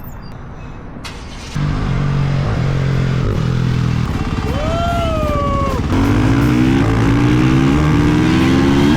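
Honda CRF motorcycle engine pulling away about a second and a half in, then accelerating and shifting up through the gears, its pitch climbing and dropping back with each shift. A short tone rises and falls about halfway through.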